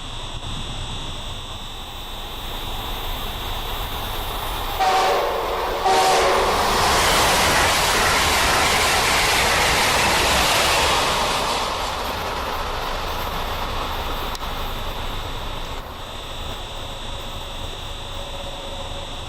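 Amtrak passenger train sounding two short horn blasts about five seconds in, then passing at speed. Its noise is loudest for about six seconds and then fades.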